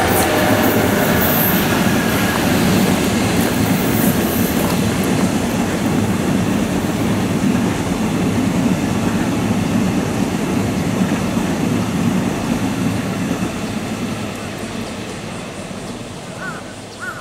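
Train of newly built Sotetsu 20000 series electric cars, towed by an electric locomotive, rolling past: a loud, steady rumble of wheels on rail that fades near the end as the train draws away.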